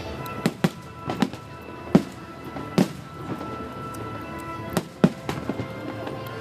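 Aerial fireworks shells bursting in a run of irregular bangs, about eight of them, the loudest about two and five seconds in, over show music with held notes playing underneath.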